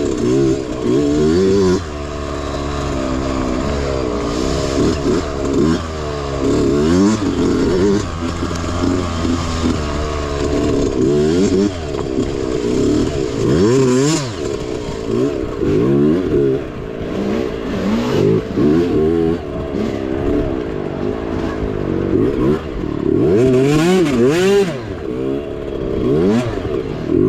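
Small mini bike engine racing, its pitch rising and falling over and over as the throttle is opened and shut. There are occasional knocks and clatter, with no steady stretch.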